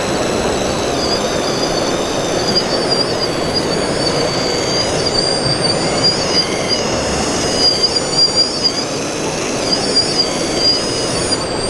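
Electric drive motors and gearboxes of several 1/14-scale RC model trucks and construction machines whining at a high pitch, the tones rising and falling as the models speed up and slow down, over a steady background din.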